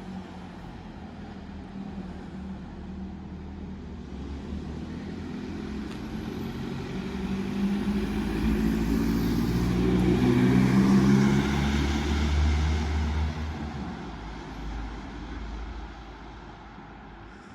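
Motor vehicle driving past: engine hum and tyre noise build to a peak about ten seconds in, then fade away.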